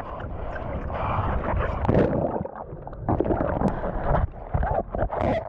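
Ocean surf and whitewater rushing and splashing around a bodyboarder riding a wave, with wind buffeting the microphone. The rush is loudest about two seconds in and again just before the end.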